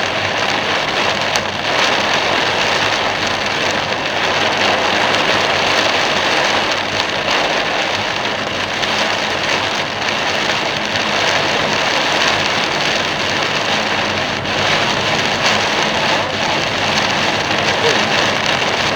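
Torrential rain pelting a moving car, heard from inside the car: a dense, loud, steady hiss of downpour and road spray with no let-up.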